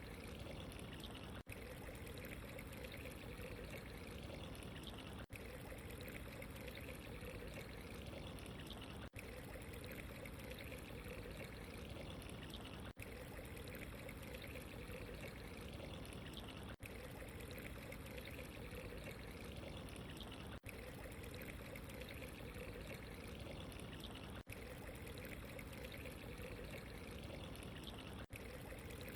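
Running water trickling and pouring steadily, with a very brief dip about every four seconds.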